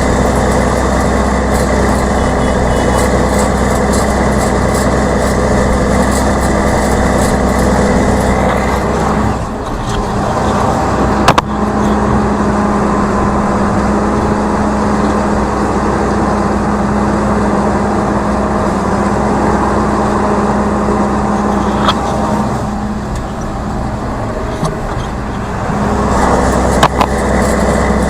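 Tractor engine running steadily, its note dropping and changing twice as the load or throttle shifts, with a few sharp knocks along the way.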